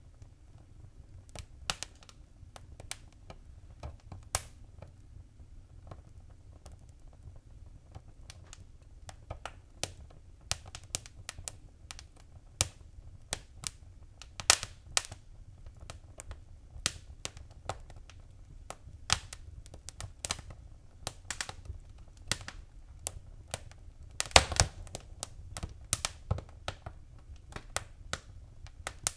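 Wood fire crackling in a fireplace: irregular sharp pops and snaps over a steady low rumble. The pops come more often after the first several seconds, with a quick flurry of them near the end.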